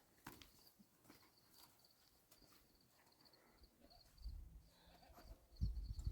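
Faint, steady cricket chirping in a rapid pulsed trill. From about four seconds in, low rumbling thuds build and become the loudest sound near the end.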